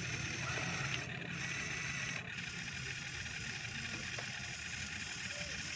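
Radio-controlled model excavator's motors and hydraulic pump whining steadily, with a high tone that cuts out briefly about a second in and again after two seconds as the controls change.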